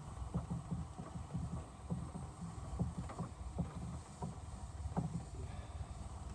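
Rhythmic low rubbing bumps, about three a second, from a hand wiping a wet headlight lens back and forth.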